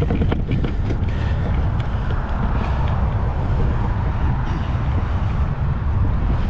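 Strong wind buffeting the microphone during a bike ride, a steady low rumble with a fainter hiss above it.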